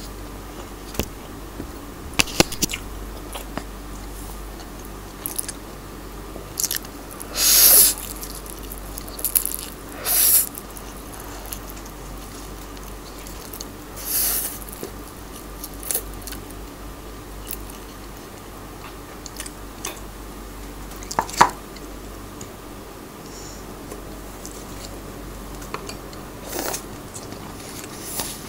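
Slurping and chewing of spicy instant noodles, with several loud slurps of about half a second each and many small clicks and smacks of eating in between.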